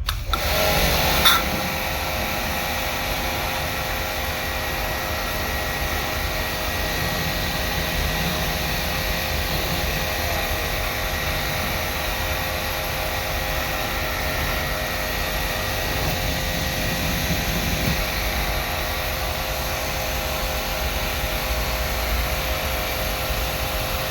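Air conditioner running: a steady whirring rush of air with a constant whine over it, after a short sharp knock about a second in.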